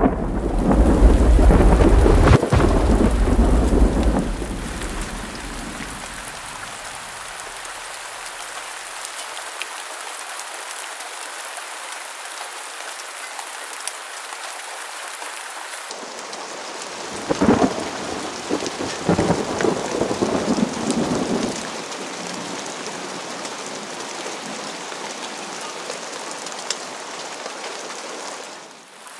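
Steady rushing hiss of falling water, opening with a loud, deep rumble for about four seconds and growing louder and crackly for a few seconds past the middle.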